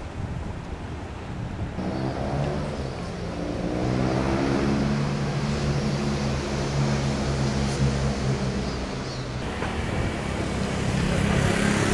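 Road traffic noise with a motor vehicle's engine running close by: its note rises as it speeds up a couple of seconds in, then holds steady before fading near the end.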